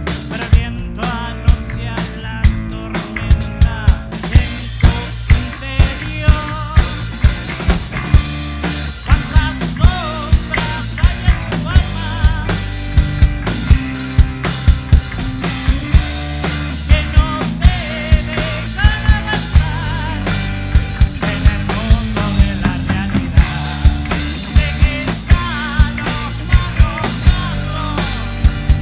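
Rock band playing live: a drum kit keeps a steady beat under bass and melodic instruments.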